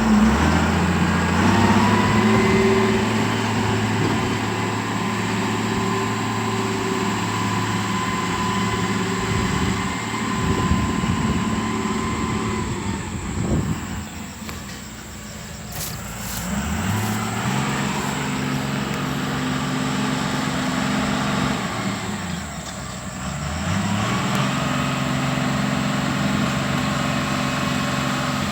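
Diesel engine of heavy road-works machinery running steadily. Its pitch falls twice, about halfway through and again about three-quarters through, and each time it climbs back up a couple of seconds later.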